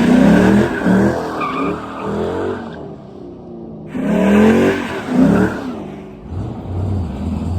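2007 Ford Mustang GT's 4.6-litre V8 exhaust being revved in quick blips, in two bursts about four seconds apart, then settling back to a low idle.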